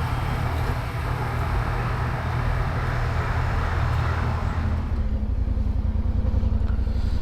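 Yamaha Ténéré 700's parallel-twin engine running as the motorcycle rolls in, with wind and road rush that dies away about four and a half seconds in, leaving the engine idling steadily.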